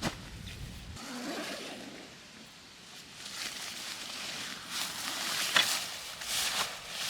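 Rustling and crackling, like leaves and twigs being disturbed, growing louder a few seconds in, with sharper crackles near the end.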